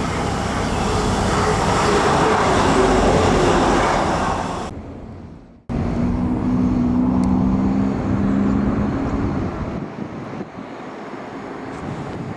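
Train running through a station, its rumble swelling and then fading away by about five seconds in. After an abrupt cut, another train's steady engine hum with two held low tones, easing off near the end.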